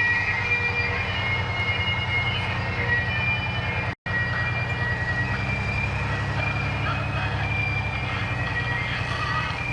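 A large diesel engine, typical of fire apparatus in a parade, running with a low rumble and a fast pulse. Steady high tones sound over it at first. The sound drops out for an instant about four seconds in.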